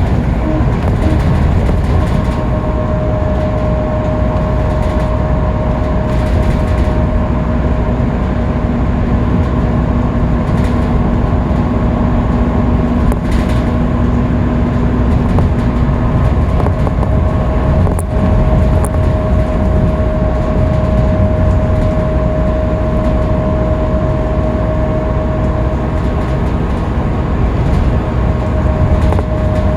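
Scania K310UB city bus running at steady freeway speed: a constant low engine and road rumble with a steady whine over it, and a second, lower whine from about a quarter to halfway through.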